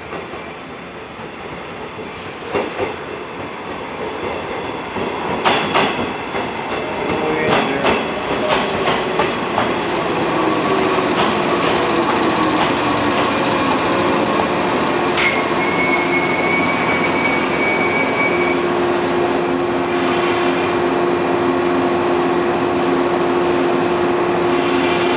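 A yellow electric multiple unit pulls into the platform. Its wheels clack over rail joints, and its brakes squeal in thin high tones as it slows. Once it has stopped, a steady hum from the standing train continues.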